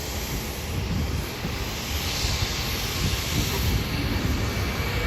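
Jet engines of a Boeing 737-700 on its departure, a steady rumble and hiss growing slowly louder.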